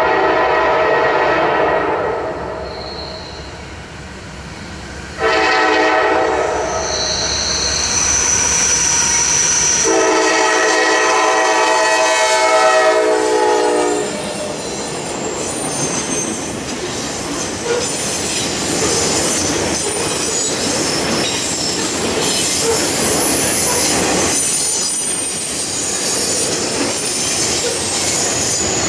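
Horn of a GE Dash 9-40CW freight locomotive sounding three times: one blast already sounding at the start, a short one about five seconds in, and a longer one from about ten to fourteen seconds. The train then rolls past with steady wheel clatter and high squealing from the wheels.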